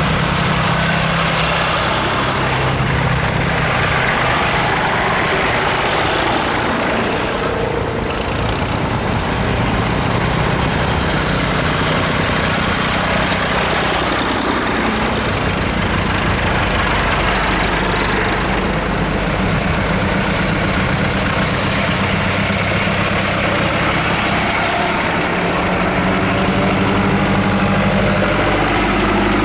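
Tractor and car engines running steadily at low revs, the engine note shifting a few times.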